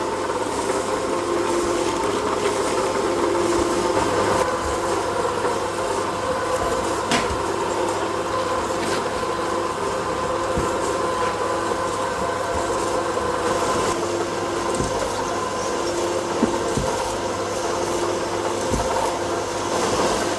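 Plastic-processing machinery running steadily with a constant hum, with a few sharp clicks over it, one of them loud about seven seconds in.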